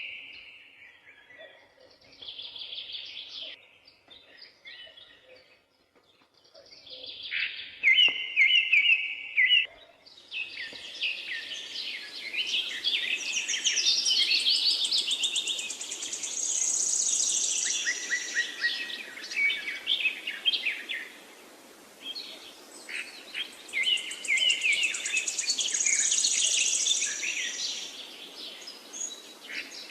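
Several wild songbirds singing and calling, one bird repeating the same short phrase every several seconds. About a third of the way in, the chorus thickens into many overlapping songs, including a high trill, over a steady background hiss.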